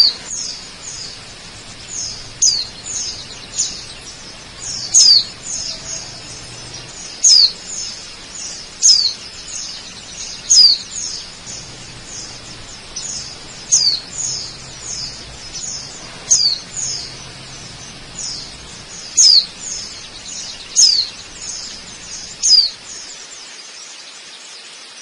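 A bird calling over and over with short, high chirps that slide downward, loud ones every second or two with fainter ones between. Underneath is a faint, steady rush of waterfall, which drops away near the end.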